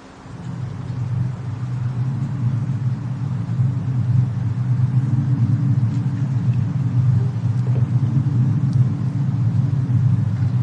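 Steady low rumble of a snowstorm-and-fireplace ambience track, fading up over the first second or two, with a few faint crackles.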